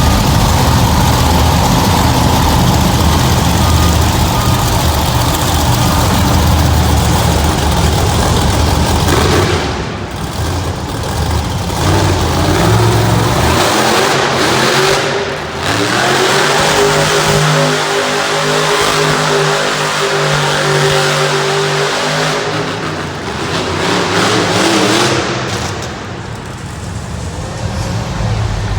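Monster truck engine running hard and revving during a run. About halfway in, the engine settles into a steady high-revving tone for several seconds, then drops back near the end.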